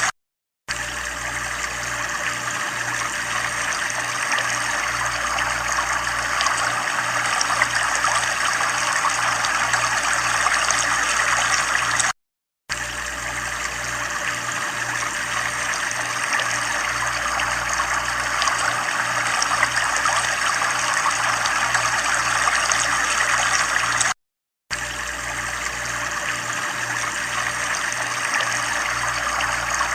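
Running water, a steady trickling flow, with a low throb pulsing a few times a second underneath. The sound cuts out completely for about half a second three times, roughly twelve seconds apart, where the recording loops.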